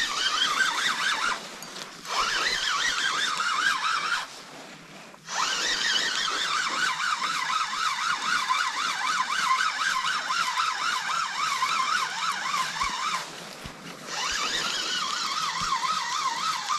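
A siren-like warbling tone, its pitch wavering rapidly up and down, broken by a few short gaps.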